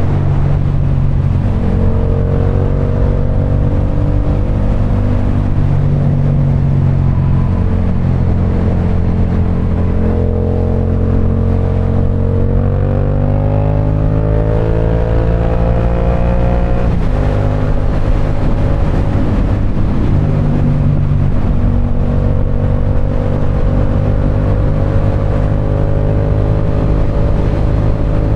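Parallel-twin motorcycle engine running at steady cruising speed. Its pitch climbs slowly as it accelerates about twelve seconds in, then drops suddenly a few seconds later and holds steady again.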